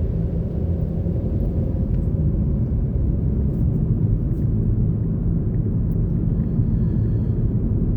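Steady low rumble of a vehicle's engine and tyres, heard from inside the cab while driving.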